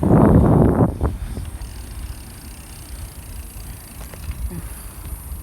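Wind buffeting a phone's microphone while riding a bicycle: a loud gust in the first second, then a steady low rumble.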